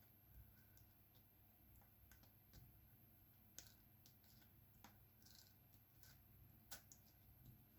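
Faint, irregular small clicks and taps of diamond painting drills being picked up and pressed onto the canvas with an applicator pen, a few seconds apart.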